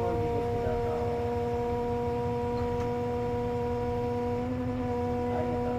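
Steady whine from a KC-JP250NTN route bus with the air conditioning running, the odd noise that marks this bus, heard over the low rumble of the engine. The whine is a single held tone with overtones that steps up slightly in pitch about four and a half seconds in.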